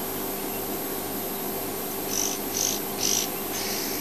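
Insect chirping: four short high-pitched pulses about half a second apart, starting about halfway in, over a steady faint hum.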